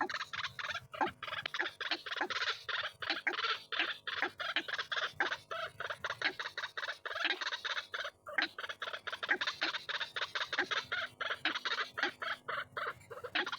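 White-breasted waterhen calling without a break: a rapid run of repeated calls, several notes a second.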